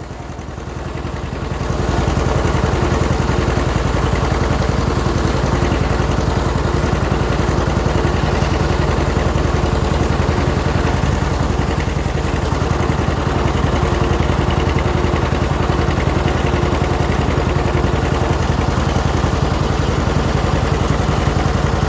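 620 tractor engine running under way in third gear, swelling over the first couple of seconds and then holding a steady, even note.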